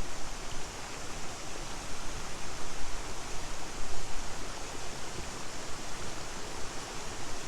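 A steady, even rushing noise with an uneven low rumble underneath.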